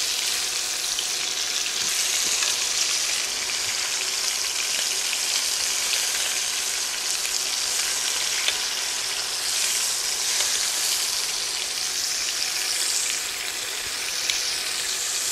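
Pork chops sizzling steadily in hot oil in a skillet as they are turned over with tongs, with a faint click or two from the tongs.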